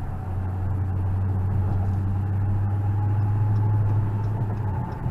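Car engine running with a steady low drone. It grows slightly louder, then eases off near the end.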